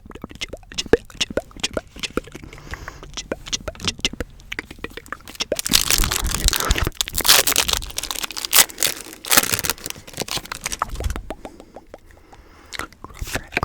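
Quick taps and scratches on crinkly packaging, then a loud stretch of crinkling and tearing from about six to ten seconds in, before it settles back to lighter taps.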